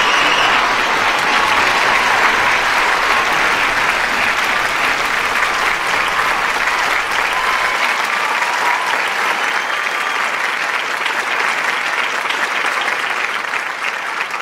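Large studio audience applauding, with a few cheers at the start; the clapping eases off slightly toward the end.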